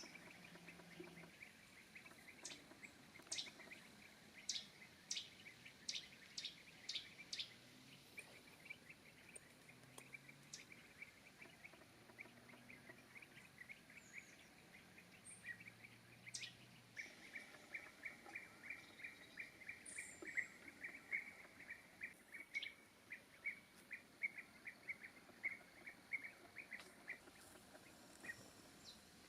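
Faint songbird calls: a series of sharp, high notes, roughly one or two a second, in the first few seconds, then a long run of quick, regular chirps from about halfway through that stops shortly before the end.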